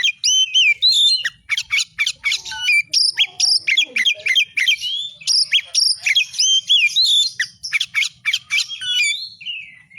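Oriental magpie-robin (kacer) singing vigorously: a fast, unbroken string of varied whistled notes, rising and falling sweeps and sharp chirps.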